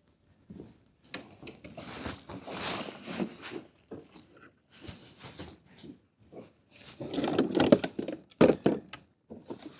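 Irregular handling noises as a small caught lingcod is dealt with on the kayak: rustling and scraping with a few sharp knocks, loudest about seven to eight seconds in.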